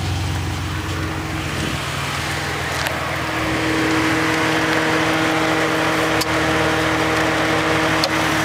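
2006 Ford Mustang's V6 idling steadily. About three seconds in, a steady whine joins the idle and it gets hissier, and there are two light clicks later on.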